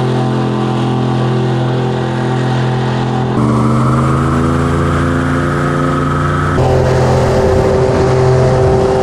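Airboat's Chevy LS2 V8 engine and large propeller running hard, a loud steady engine note that steps up abruptly in pitch and loudness about a third of the way in and again about two-thirds of the way in.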